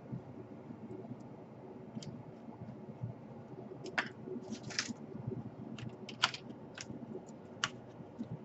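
Small irregular clicks and scrapes of hard plastic laptop parts and tools being handled, with a few sharper snaps near the middle.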